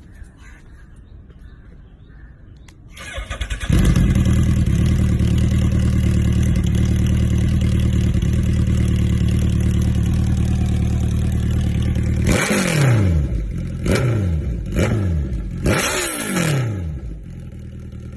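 Suzuki Hayabusa inline-four motorcycle engine with an aftermarket exhaust starting about three seconds in and settling into a loud, steady idle. Near the end it is blipped four times, each rev rising sharply and falling away, before it drops back to a lower idle.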